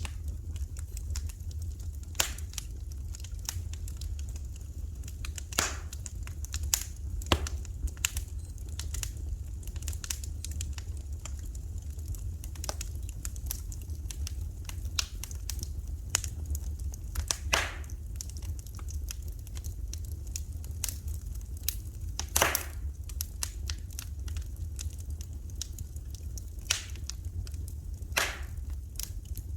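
Fire crackling in a fireplace: irregular sharp pops and snaps over a steady low rumble, the loudest pops coming a little past the halfway point.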